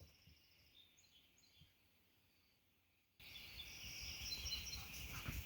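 Faint wild birds chirping. About three seconds in, the background jumps abruptly to a louder steady high hiss with clearer bird chirps in it.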